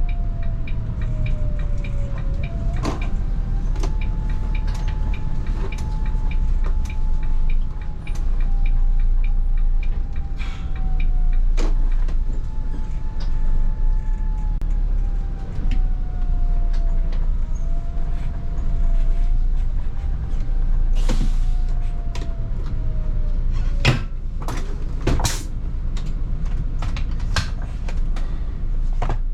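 Volvo 8900 city bus heard from inside the cabin while driving: a steady low rumble from the engine and road, with a drivetrain whine that rises and falls as the speed changes. Rattles and knocks from the body come and go throughout, and a short hiss comes about two-thirds of the way through.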